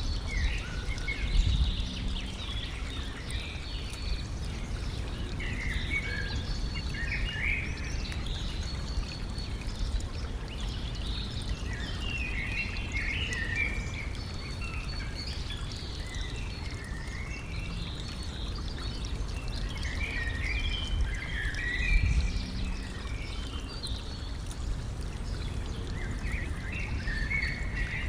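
Stream water running and trickling steadily, with small birds chirping and singing in short bursts throughout. A low rumble swells up briefly twice, once near the start and once about three-quarters of the way through.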